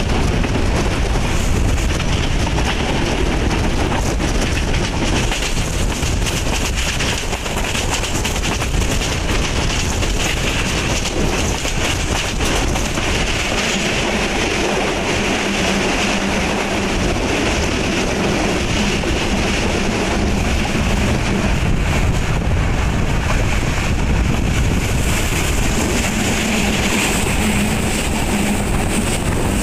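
Broad-gauge passenger train running at speed, heard from aboard: a steady rumble and clatter of wheels on the rails.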